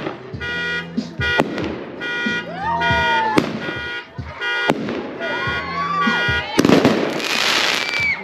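Fireworks going off with repeated sharp bangs over car horns honking in stretches, ending in a long dense crackling burst about six and a half seconds in.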